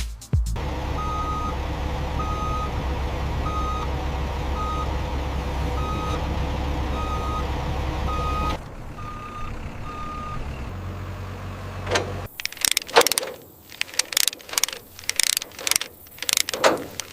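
A heavy vehicle's engine running, with a reversing alarm beeping about once a second. The engine noise drops about two-thirds of the way in and the beeps stop soon after. Near the end comes a run of sharp clicks and knocks.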